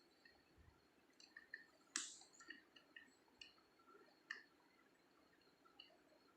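Faint small metallic clicks and ticks of a wafer-picking tool working a safe lock's wafers one at a time, with a sharper click about two seconds in and another a little after four seconds.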